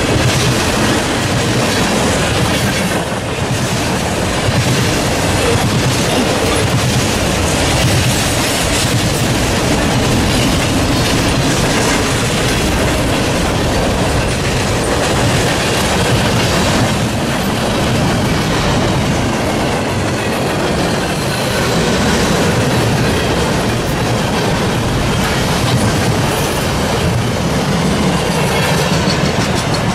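Norfolk Southern freight train passing close by, a string of boxcars rolling past with a steady, loud noise of wheels on rail.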